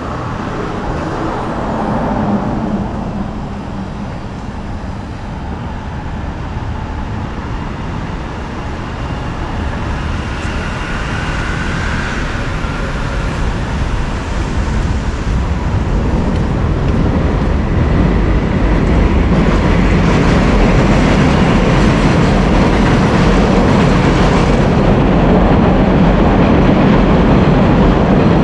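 Elevated subway train running along the overhead track. Its rumble builds over the second half and holds steady and loud to the end, over street traffic.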